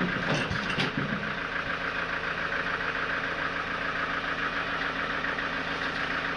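Sawmill machinery motor running steadily with a fast, even pulse, and a few short knocks about half a second in.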